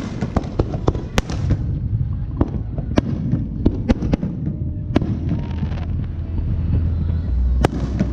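Fireworks going off overhead: many sharp bangs at irregular intervals, some in quick clusters, over a steady low rumble.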